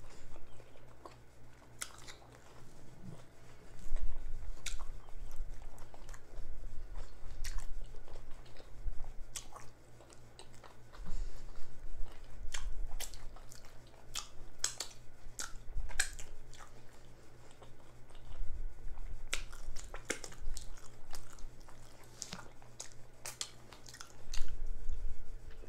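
Close-miked chewing of a jalapeño cheddar sausage in a bun with peppers and onions, with many sharp wet lip smacks, coming in louder bursts every few seconds.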